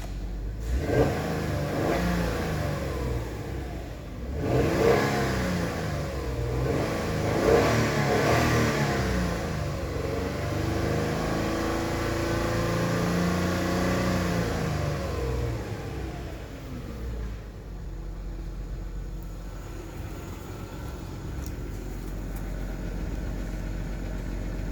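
2004 Hyundai Tucson's 2.7 L G6BA V6 engine being revved: three quick blips of the throttle, then held at raised revs for a few seconds before dropping back to a steady idle.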